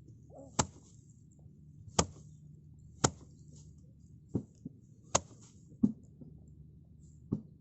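A series of sharp knocks or whacks, about one a second and not quite evenly spaced, seven in all, over a faint steady low hum.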